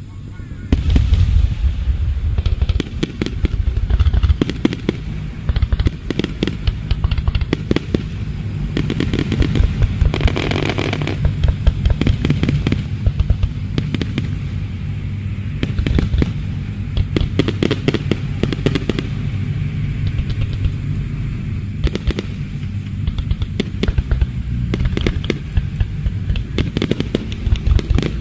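Aerial fireworks bursting in rapid succession: a dense run of sharp bangs and crackling over a rolling low rumble, growing loud about a second in.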